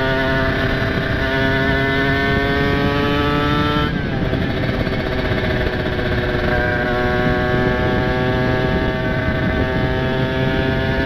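Kawasaki Ninja RR two-stroke single with a ported cylinder, pulling under throttle: its pitch climbs steadily, drops at a gear change about four seconds in, then climbs again.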